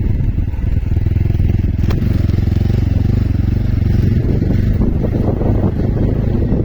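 Motorcycle engine running steadily while riding, with a low, even rumble of firing pulses and wind buffeting the microphone. A brief sharp tick comes about two seconds in.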